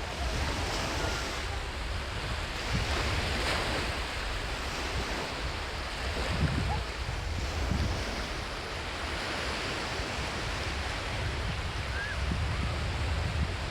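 Waves washing onto a sandy beach in a steady surf hiss, with gusts of wind rumbling on the microphone.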